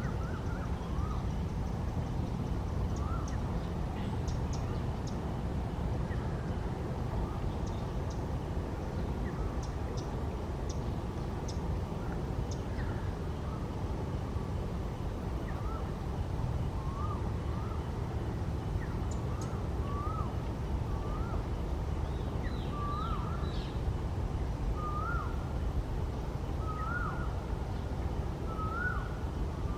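A bird calling over and over in short hooked notes, the calls coming more regularly and growing louder and a little higher in pitch through the second half, with faint high chirps from other small birds, over a steady low background rumble.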